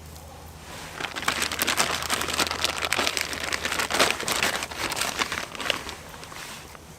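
Dense crinkling and rustling, a rapid crackle of small clicks that starts about a second in and dies away about a second before the end.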